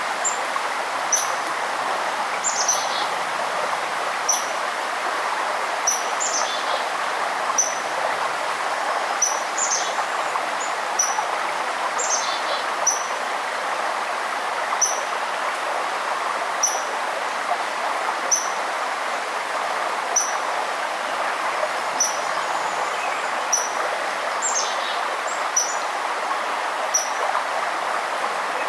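Steady rush of flowing water from a forest river, with a small bird repeating a short high chirp about every second. Another bird gives a brief falling trill several times.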